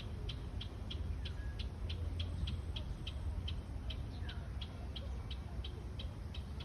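Outdoor nature ambience: a small animal gives a short, high chirp over and over, evenly, about three times a second, with a couple of faint falling whistles from other birds and a low rumble underneath.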